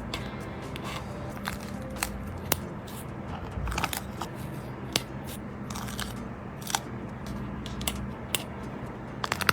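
Paper and plastic sticker sheets being handled, with irregular crinkles and sharp clicks.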